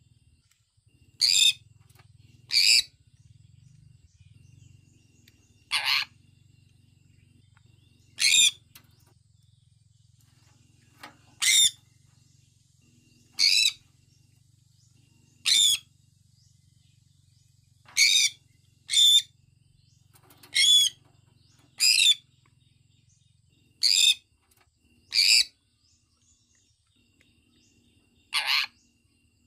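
Sun conure giving short, shrill, high-pitched calls one at a time, about fourteen in all, spaced one to three seconds apart.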